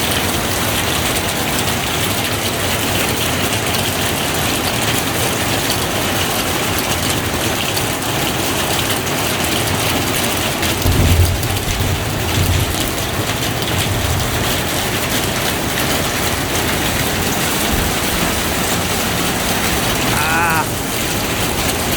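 Steady heavy rain pouring down. About halfway through comes a brief low rumble of thunder.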